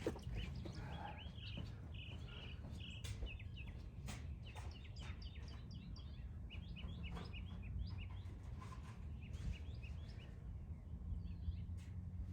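Small birds chirping over a steady low rumble, the chirps coming thickly through the first half and thinning out near the end, with a few sharp clicks scattered among them.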